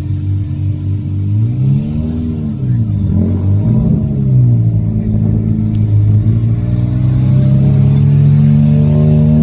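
Turbocharged 13B rotary engine of a Mazda RX-7 FD3S, revved up and down twice in quick swings, then pulling under load with its pitch rising steadily as the car accelerates.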